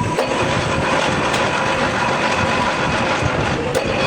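Workshop machine running steadily with a dense clattering noise and a steady hum, with a couple of sharp clicks.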